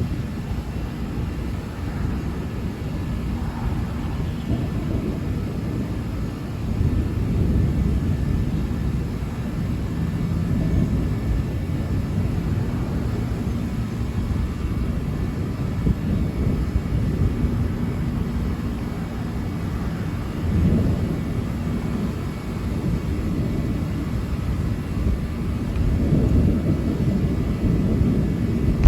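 Thunder rumbling low and continuously through a severe thunderstorm, swelling and fading several times with no sharp crack.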